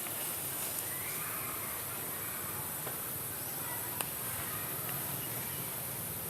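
Outdoor animal ambience: a steady high-pitched insect drone, faint short animal calls, and one sharp click about four seconds in.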